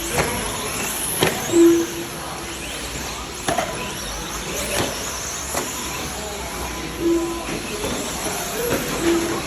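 2wd short course RC trucks racing on the track: a steady mix of motor and tyre noise with a few sharp knocks, and short single-pitched beeps a few times.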